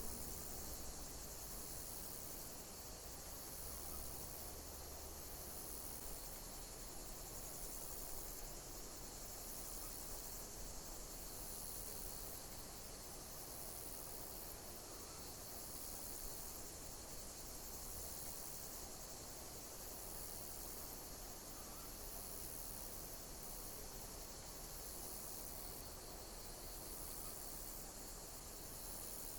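Insects chirping: a very high chirp repeating about once a second over a steady high-pitched insect hiss.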